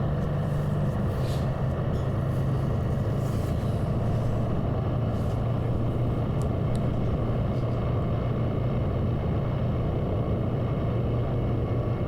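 Motorcycle engine running at a steady cruise, a constant low hum under wind and road noise.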